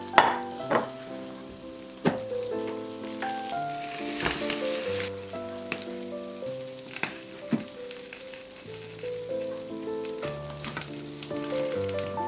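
Food sizzling and crackling in a frying pan, with a few sharp pops, over soft piano music.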